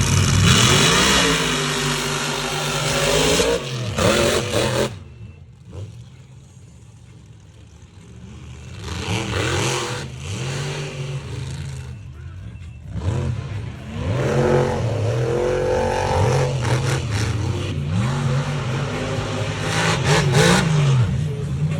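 Big-engined mega trucks racing, their engines revving hard and easing off again and again. A quieter lull comes about five seconds in, then the engines pick up again.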